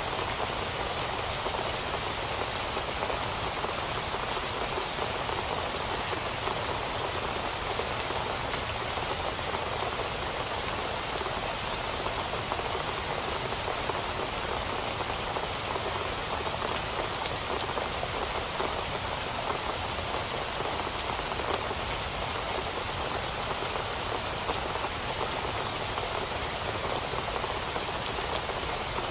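Steady rain falling and pattering on surfaces, an even hiss with fine drop patter throughout, no thunder.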